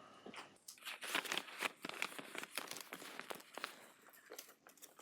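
Faint, irregular rustling and crinkling with scattered light taps.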